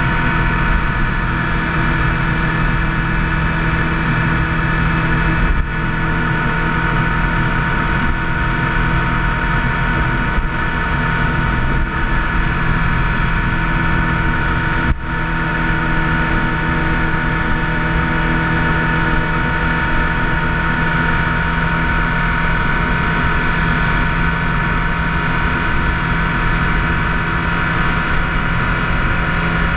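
Motorcycle engine running at a steady cruising speed, with wind and road noise; the sound briefly drops away twice, about a third of the way and halfway through.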